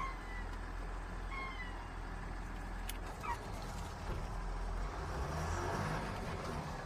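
Semi-truck running with a steady low engine rumble, with a few short high squeaks in the first half and a single click about three seconds in.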